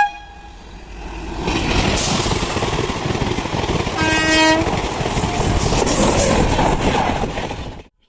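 Train passing at speed, its rushing rumble building from about a second in, with one short horn blast about four seconds in; the sound cuts off abruptly near the end.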